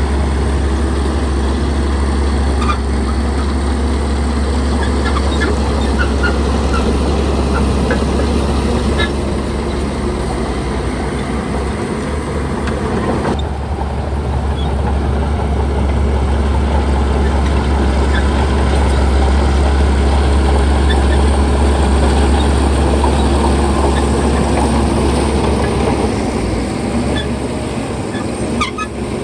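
Shantui bulldozer's diesel engine running steadily with a deep low hum, with light clinks scattered through it.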